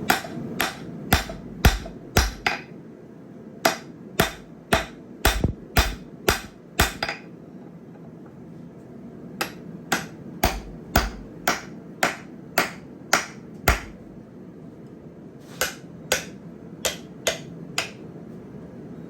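Blacksmith's hammer striking hot steel on an anvil, about two blows a second in four runs separated by short pauses.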